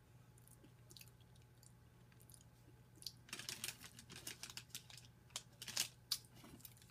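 Chewing chili nut M&M's peanut candies: a few faint clicks, then, from about halfway in, a dense run of crisp crunches lasting about three seconds.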